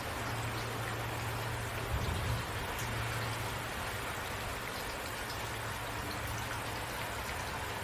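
Steady rain falling, an even hiss with a few faint drop ticks, over a constant low hum.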